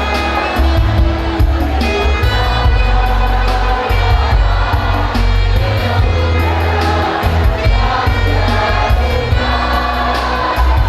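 A school choir singing with an instrumental backing that carries a strong, sustained bass line.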